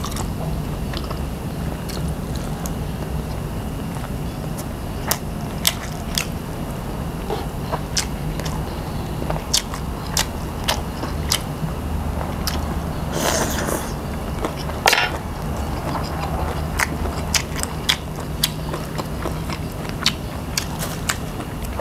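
Close-miked eating: chewing and biting with frequent sharp wet mouth clicks and smacks, over a steady low hum. There is a short noisy rush just past halfway.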